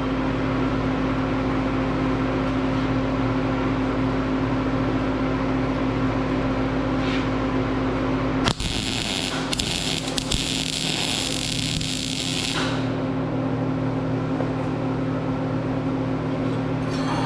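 Steady electrical hum of a welding machine, broken about halfway through by roughly four seconds of crackling, hissing arc welding as a tack weld is laid.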